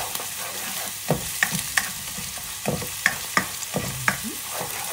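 A paste of blended lemongrass, garlic and chili sizzling in hot oil in a wok, stirred with a spatula that scrapes and taps against the pan. There is a steady sizzle with irregular scrapes and knocks, several a second at times.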